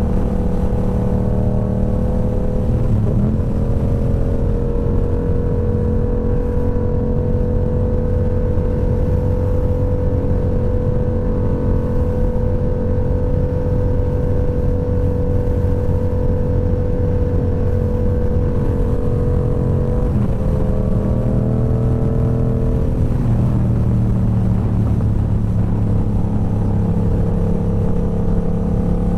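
Motorcycle engine running steadily at cruising speed, its pitch shifting briefly about three seconds in and again around two-thirds of the way through as the throttle or gear changes.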